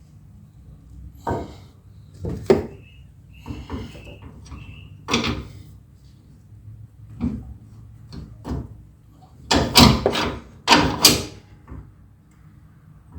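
Irregular metal clanks and knocks of a tubular steel upper control arm and tools being handled while the arm is fitted into a pickup's front suspension. There is a short metallic ring about four seconds in, and a quick run of louder clanks about ten seconds in.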